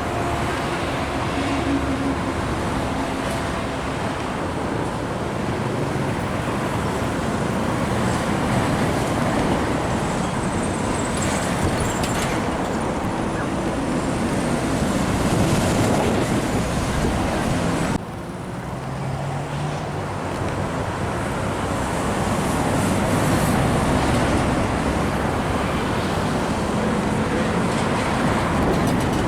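Steady road traffic with heavy trucks passing: diesel engines running and tyre noise. The sound drops suddenly about two-thirds of the way through, then builds again.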